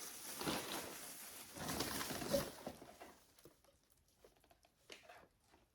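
Rustling and handling noise as objects are picked up and moved, for about three seconds, then a few faint taps.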